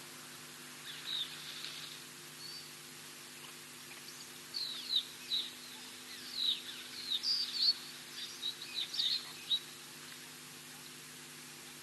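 Birds chirping: a few short high calls about a second in, then a busier run of quick downward-sliding chirps in the middle, over a steady low electrical-type hum.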